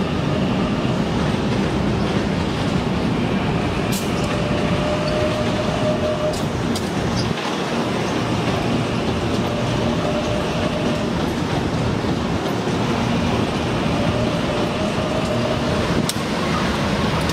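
Electric commuter train running past on the rails: a steady rumble of wheels on track, with a faint held tone coming and going every few seconds and a few sharp clicks.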